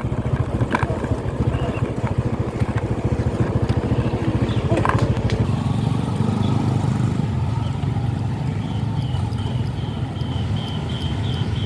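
Motorbike engine running steadily while riding. Near the end, a quick run of short, high chirps, about four a second, plays over it.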